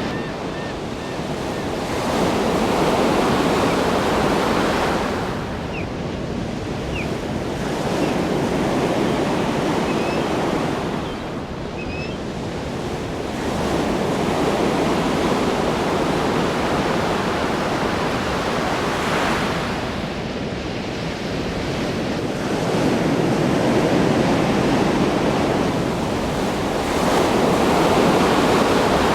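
Ocean surf: waves breaking and washing in, a continuous rushing that swells and eases every few seconds.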